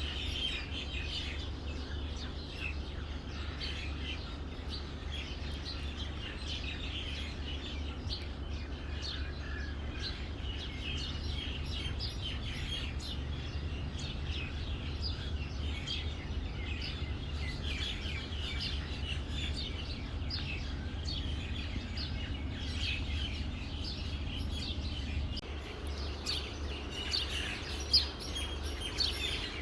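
Many small birds chirping and twittering throughout, over a steady low hum.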